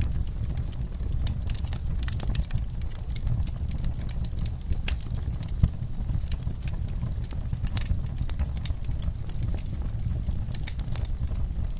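Wood fire burning in a fireplace: a steady low rumble of the flames with irregular crackles and small pops, one louder pop a little past the middle.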